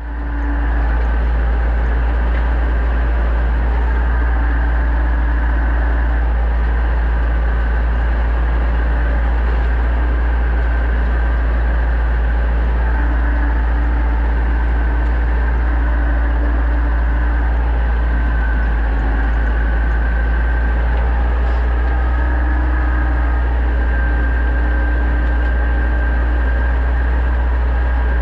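Pronar 1025A tractor engine running steadily under load while ploughing, a constant deep drone with no change in speed.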